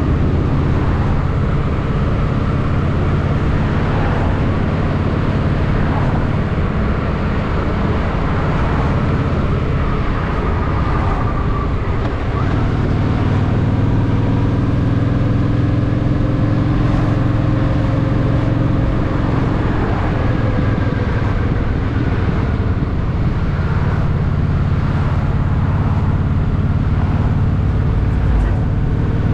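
Honda Shadow VT750's V-twin engine running as the motorcycle rides through city traffic, its note rising and falling slowly with speed and changing about twelve seconds in.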